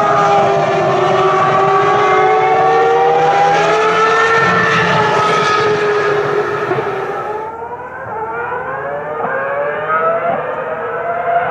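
Ferrari racing car engines at high revs on track, their pitch sweeping down and up as cars pass and shift. After an abrupt cut about seven and a half seconds in, an engine accelerates with its pitch climbing in steps through upshifts.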